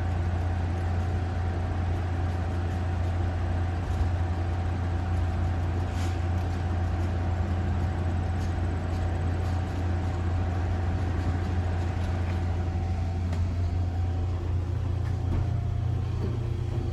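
Steady low hum and rumble inside a passenger railroad car, with a thin steady tone that fades near the end and a few light clicks.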